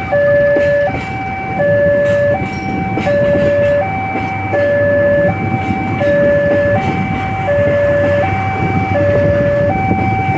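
Railway level-crossing warning alarm sounding: an electronic two-tone signal that alternates steadily between a high and a low note, switching about every three-quarters of a second, over the steady noise of road traffic.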